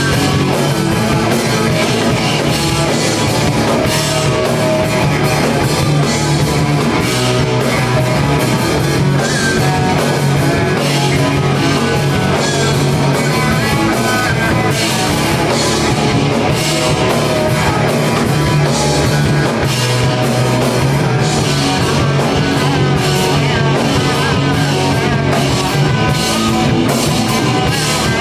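Rock band playing live, guitar and drum kit going full on at a steady loud level, with regular drum and cymbal hits driving a fast beat.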